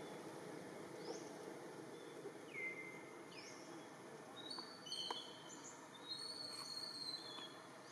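Birds calling against a faint steady outdoor background: a short rising chirp repeats about every two seconds, then several clear whistled notes overlap in the second half.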